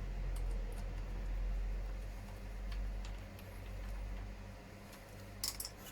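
Light plastic clicks and ticks from hands working on a hard-body RC truck shell as it is fastened to the chassis, a few scattered ones and then a quick cluster near the end, over a steady low hum.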